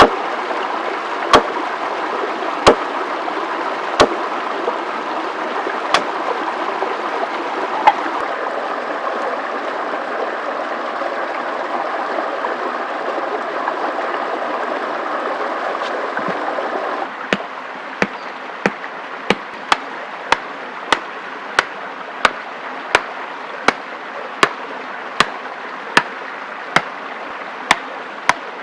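A steady rush like running water, with sharp knocks over it: a few scattered ones at first. About two-thirds of the way through, the rush drops abruptly and the knocks come evenly, about twice a second.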